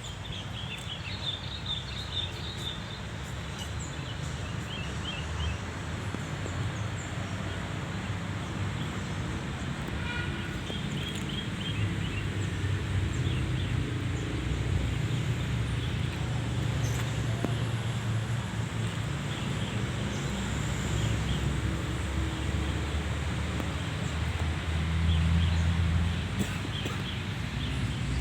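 Small birds chirping in short bursts, about a second in, around ten seconds in and near the end, over a steady low rumble of wind or distant traffic.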